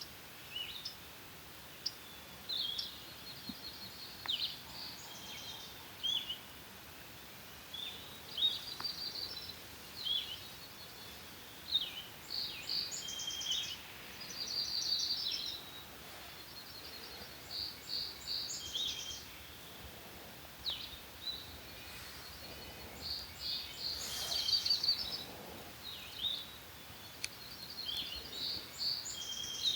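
Several songbirds singing over one another: short high whistled phrases and rapid trills of repeated notes, the calls overlapping throughout, over a faint steady hiss of background noise.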